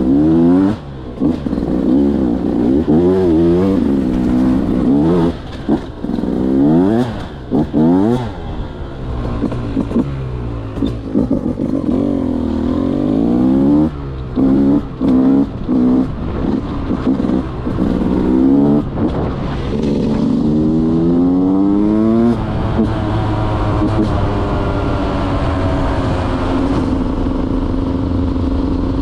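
Single-cylinder two-stroke engine of a 2023 Beta 200 dirt bike, revved up and down over and over with its pitch rising and falling quickly. About two-thirds of the way through it settles into a steadier, more even note.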